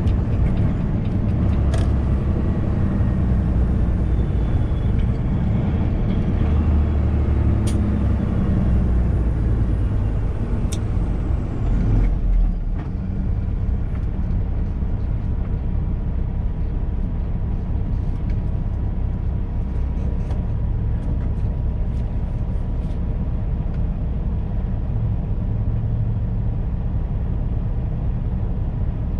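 Cab noise of a semi-truck on the move: the diesel engine runs under load with road and tyre noise, its pitch rising in the first several seconds as the truck accelerates. About twelve seconds in there is a brief low thump, after which it settles to a steadier, somewhat quieter drone.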